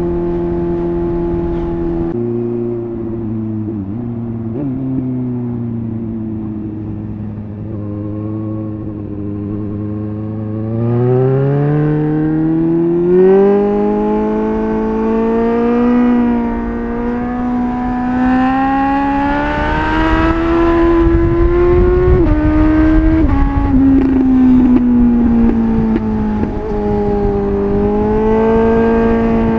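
Suzuki GSR 750's inline-four engine through a MIVV Double Gun exhaust while riding. The revs drop about two seconds in and hold low, then climb in steps from about eleven seconds under acceleration. They fall away again a little after twenty-two seconds and settle.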